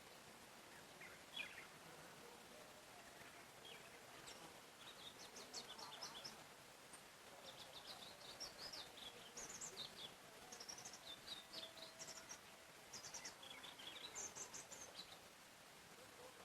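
Songbirds chirping and singing faintly, short high chirps coming in quick runs and clusters over a faint steady hiss.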